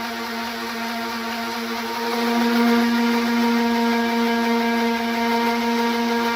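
Electric orbital sander running with 120-grit paper on a fiberglass-filled car fender: a steady motor hum under a gritty sanding hiss, getting louder about two seconds in.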